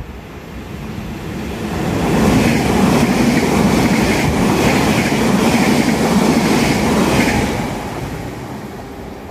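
Northern passenger multiple-unit train passing through the station at speed close by, its wheels clattering rhythmically over the rails. The sound swells as it approaches, stays loud for about five seconds as it goes past, then fades away.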